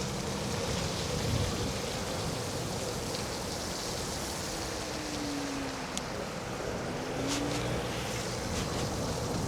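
Steady rush of wind and tyre noise from an electric scooter riding fast on a road, with a faint steady hum underneath and a few short ticks.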